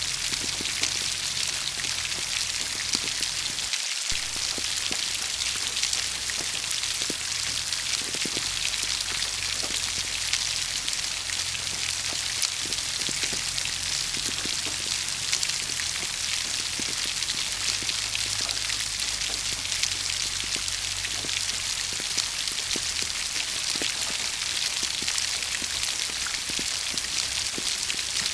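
Steady rain falling, a dense even hiss of many drops with fine individual drop ticks throughout.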